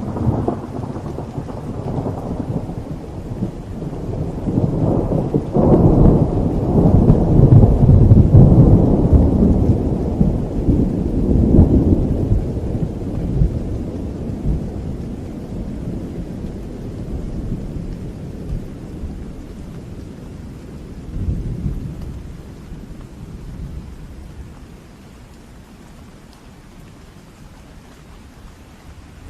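A long roll of thunder over steady rain. It breaks in suddenly, builds to its loudest a few seconds later, and rumbles away over about twenty-five seconds, with one more swell near the end.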